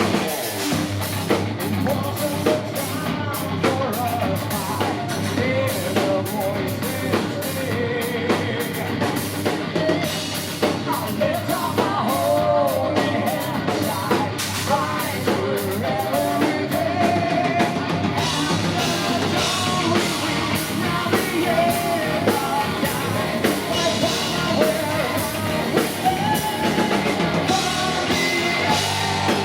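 Heavy metal band playing live: drum kit, distorted electric guitars and bass under a male lead singer.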